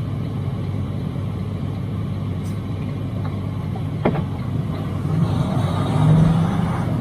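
Semi truck's engine and road noise heard inside the cab while driving on a snowy highway: a steady low rumble, with a short click about four seconds in and a low hum swelling briefly near the end.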